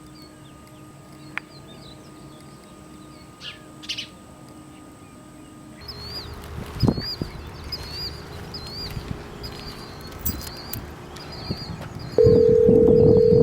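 Birds chirping in short repeated calls, with a few faint knocks. About a second before the end a loud steady ringing tone starts: a phone ringing.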